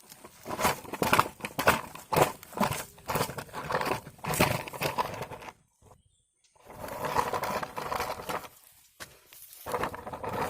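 Irregular rustling, crunching and scraping handling noises, with a break of near silence about six seconds in.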